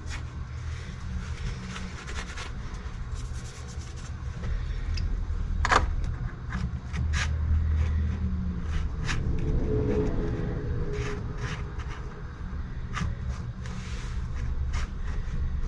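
Scattered sharp metallic clicks and knocks of hand tools working on a transmission, over a steady low rumble that swells in the middle.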